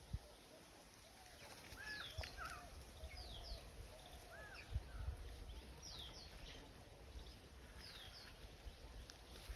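Birds calling outdoors: a repeated pair of short, high notes falling in pitch about every one and a half seconds, with a few lower, arched whistled notes from other birds. There are occasional low bumps underneath.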